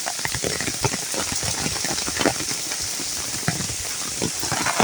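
Heavy tropical downpour: a steady hiss of rain with many close drops splashing sharply throughout.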